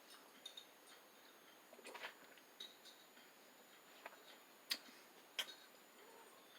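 Near silence with a few faint, short clicks and taps scattered through it, the clearest two a little under a second apart near the end.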